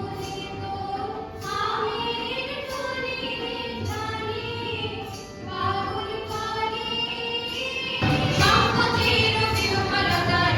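A song sung by female voices over music, growing louder about eight seconds in.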